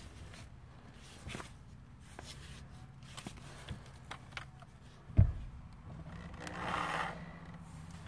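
Handling noises from roofing work: faint scrapes and rubs, with one sharp knock about five seconds in and a short scraping stretch near the end.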